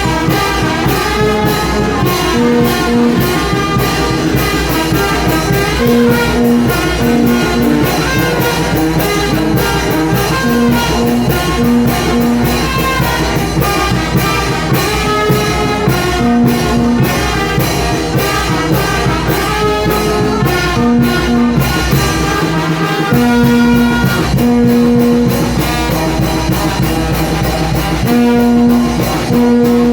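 Mexican banda-style brass band playing: trumpets and trombones over a steady beat, with held brass notes and a brief break in the bass a little past the middle.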